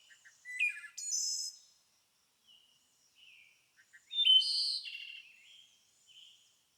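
Songbird singing: two loud, high-pitched song phrases, one about half a second in and another about four seconds in, with softer chirps between them.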